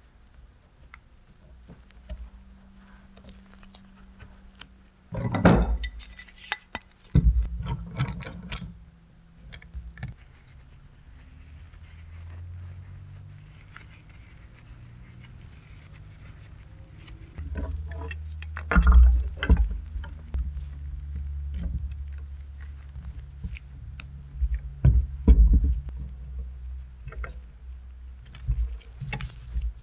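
Workshop handling sounds: hard objects and tools knocked, scraped and set down, over a low hum. The knocks come in scattered clusters, loudest a few times through.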